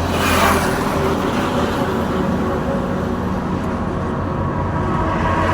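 Road traffic: a steady low engine drone with tyre noise, and a vehicle passing close about half a second in.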